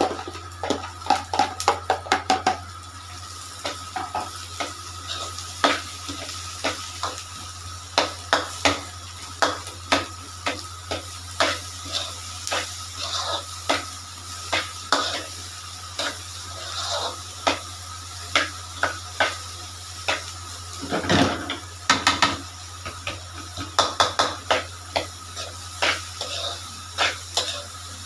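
Metal spatula repeatedly knocking and scraping against a kadhai as vegetables and scrambled eggs are stir-fried in hot oil, with a steady sizzle underneath. The knocks come about one or two a second, with a denser flurry a little past the middle.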